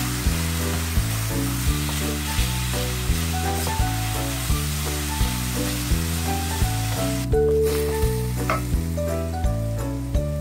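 Diced chicken, garlic and onion sizzling in a stainless steel frying pan as a wooden spatula stirs them, over background music with a steady beat. The sizzling stops abruptly about seven seconds in, leaving the music.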